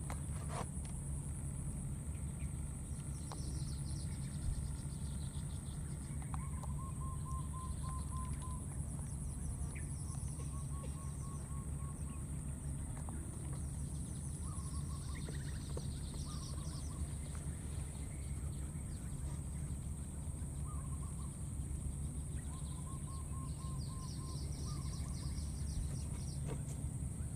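Birds calling several times in short runs of repeated notes, with higher chirps, over a steady high hiss and a low rumble.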